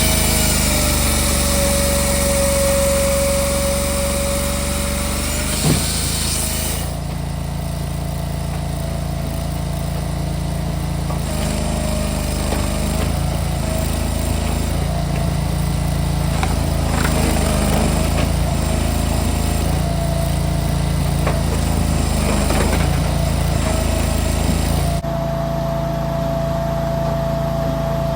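Engine-driven firewood machinery running steadily, with a steady whine whose pitch dips and returns. The sound changes abruptly about seven seconds in and again near the end.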